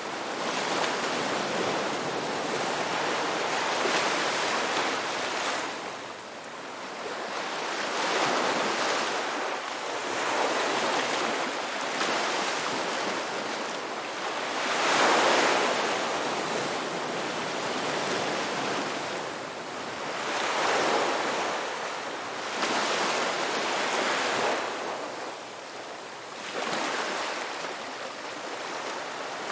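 Sea waves breaking and washing in, rising and falling in surges every few seconds, the loudest surge about halfway through.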